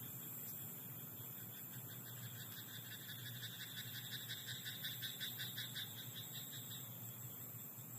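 A frog croaking in a rapid, even series of pulses that swells in loudness around the middle and fades away before the end, over a steady faint hiss.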